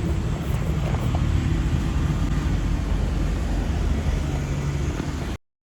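Car in motion: a steady low engine and road rumble that cuts off suddenly near the end.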